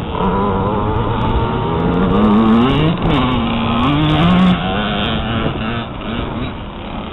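Motocross bike engine revving, its pitch repeatedly rising and falling as the throttle opens and closes, with a sharp drop and climb about three seconds in.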